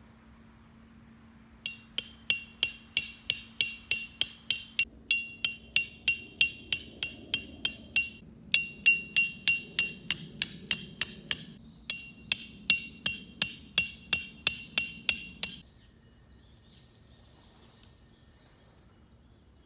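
Metal tent pegs being hammered into the ground, about three sharp ringing strikes a second in runs of several seconds with brief pauses, starting about two seconds in and stopping a few seconds before the end.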